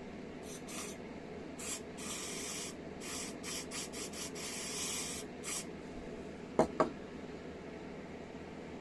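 A series of short spraying hisses, some brief and some lasting about half a second, followed a second later by two sharp clicks in quick succession.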